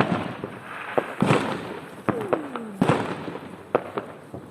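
Fireworks going off: a series of sharp bangs and pops, about eight in four and a half seconds, with crackling hiss between them.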